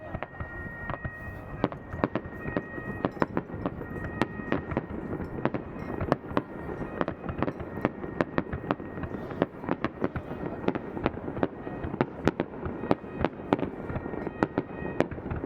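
Aerial fireworks display going off in a dense barrage: many sharp bangs and pops, several a second, over continuous crackling.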